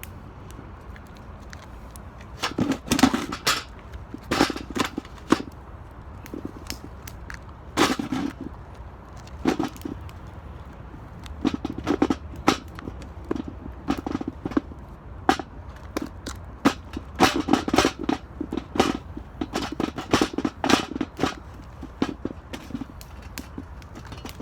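Wood crackling and snapping: irregular sharp cracks, some single and some in quick clusters, scattered throughout.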